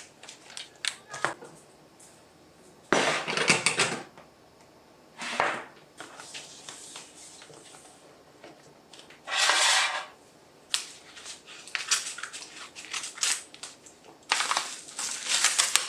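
Objects being handled in a small room: several short bursts of rustling and clatter with light clicks between them.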